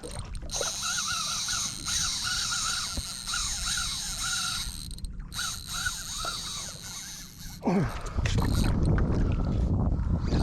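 Daiwa BG spinning reel whirring as a hooked fish is fought on braided line, a high wavering whir with a short break about five seconds in. From about eight seconds in, wind buffets the microphone.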